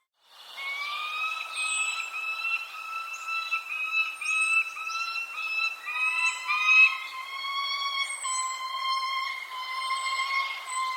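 Birds calling: one voice repeats short whistled notes in a steady run, which settles into longer held notes from about halfway in. Thin, high, falling chirps from other birds sound now and then. The sound comes in after a momentary silence at the start.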